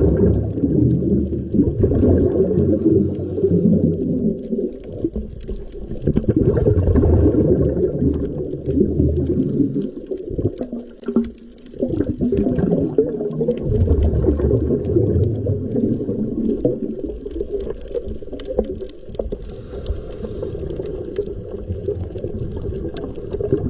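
Sea surf rumbling and washing in swells that build and ease, with a brief lull about ten seconds in.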